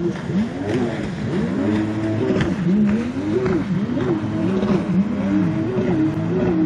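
An engine running, its pitch rising and falling over and over.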